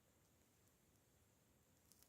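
Near silence: faint room tone, with a faint click just before the end.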